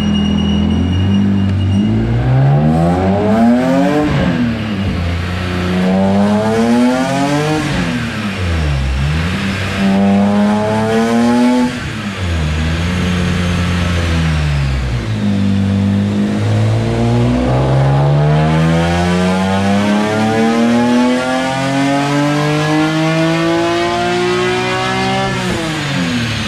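BMW S54 straight-six in an E30 race car running on a chassis dyno. It revs up and drops back three times, holds steady for a few seconds, then makes one long rising pull of about eight seconds. The pull drops off sharply near the end as the throttle closes.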